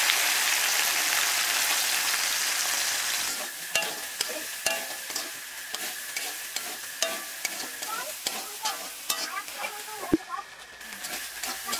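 Boiled soya chunks frying in hot oil in a metal wok: a loud steady sizzle that drops off after about three seconds, then a quieter sizzle with the scrape and clack of a metal spatula stirring them against the pan.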